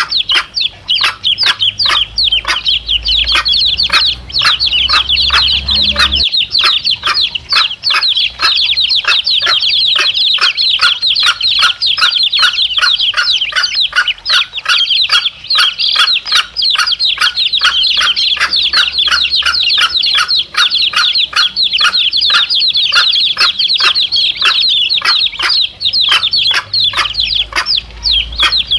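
A brood of chicks peeping without pause, many short high peeps a second overlapping one another.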